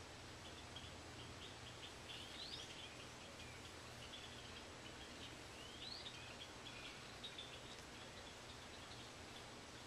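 Faint chirping of small birds, many short chirps, with two rising whistled notes about two and a half and six seconds in, over a low steady hum.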